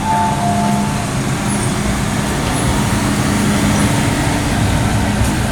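MTR M-Train electric multiple unit heard on board: a steady running hum. A two-tone electronic chime ends about a second in.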